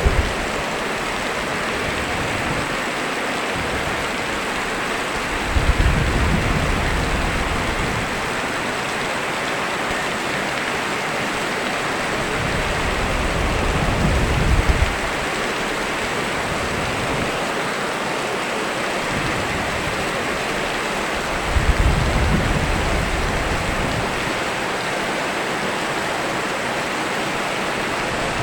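Steady rain with an even hiss, and three low thunder rumbles rolling in about eight seconds apart.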